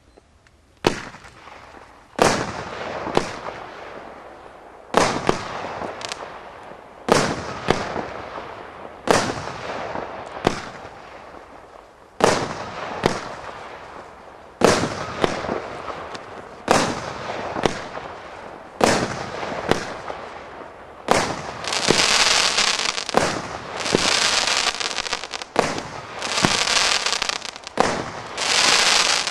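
A 16-shot firework battery cake firing: one sharp bang after another, about every one to two seconds, each followed by a short hiss of the rising tail and the burst. From about two-thirds of the way through, a dense crackling sets in between the bangs, from the crackling tails and crackle effects.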